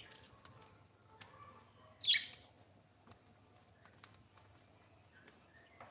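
Cockatiel giving a short chirp that falls in pitch about two seconds in, after a brief high squeak at the start, with a few small sharp clicks between.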